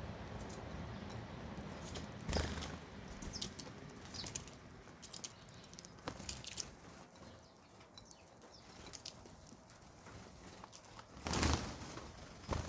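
Birds pecking at food: a scatter of quick sharp taps and clicks, with two louder rustling sounds, one about two seconds in and one near the end.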